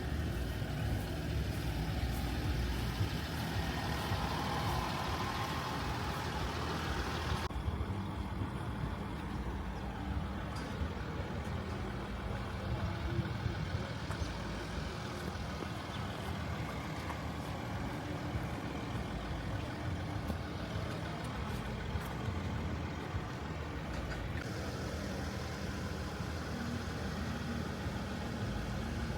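Vehicle running with a steady low engine and road rumble. The higher hiss drops away about seven seconds in and returns near the end.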